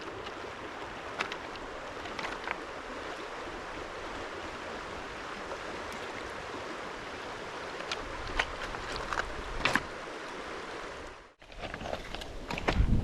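River water running steadily, with scattered small clicks and snaps over it. The sound drops out briefly about eleven seconds in, then resumes with more handling noise.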